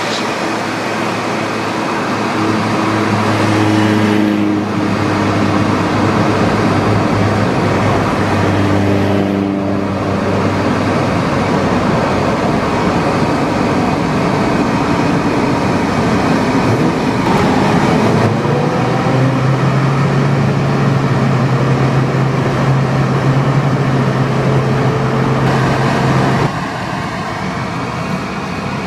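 Classic car engines running, with steady engine tones that change pitch every few seconds and the revs rising a few times.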